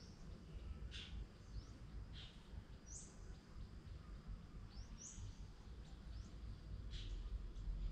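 Birds chirping: several short, high chirps a second or two apart, over a faint low rumble of background noise.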